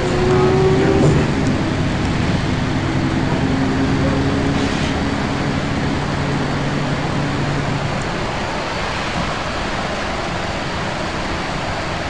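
Volvo B10BLE single-decker bus under way, its diesel engine's tone gliding up over the first second or so and then holding steady, over an even rush of road noise that is all that is left after about six seconds.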